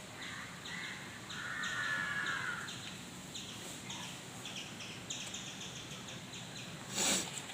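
Birds chirping repeatedly in the background, with one longer wavering call about one and a half seconds in. A short burst of noise near the end.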